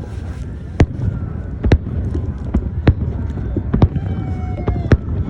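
Fireworks shells bursting: about five sharp bangs, roughly a second apart, over a steady low rumble.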